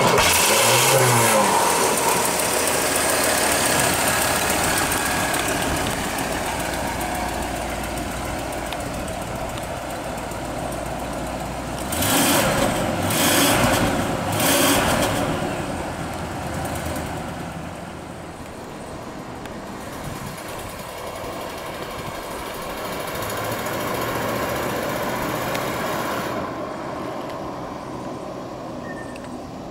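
1978 Cadillac Eldorado Biarritz's 425 cubic-inch V8 running: a brief rev about a second in, then a steady idle, with a few louder rushes of noise in the middle. Near the end the car pulls away slowly.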